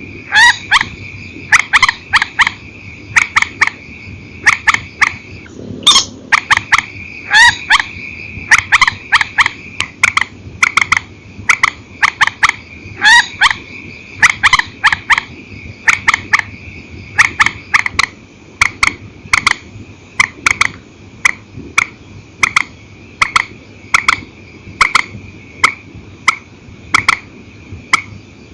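Swamphen calling over and over: short, sharp calls about one to two a second, some single and some in quick pairs. A steady high whine runs underneath.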